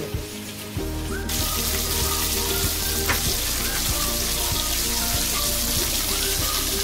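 Chicken seekh kababs sizzling in shallow oil on a flat iron tawa: a steady, even frying hiss that starts about a second in.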